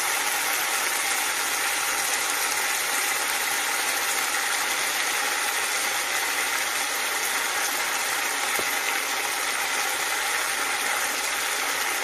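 Chopped vegetables sizzling steadily as they fry in a non-stick wok.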